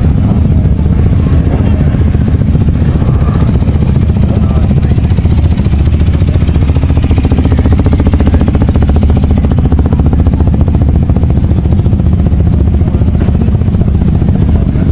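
Motorcycle engines running close by: a loud, steady low rumble with a fast, even pulse.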